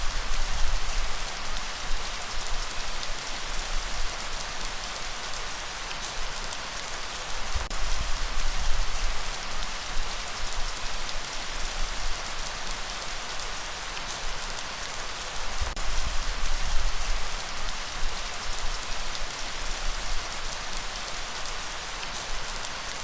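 Steady rain falling and pattering on surfaces, with individual drops ticking, and a low rumbling that swells every several seconds.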